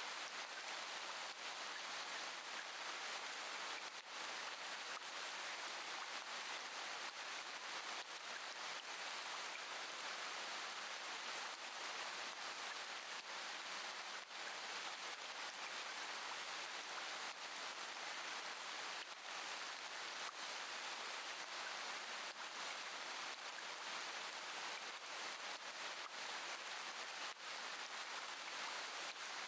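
Steady rain falling, an even hiss with a few faint drop taps.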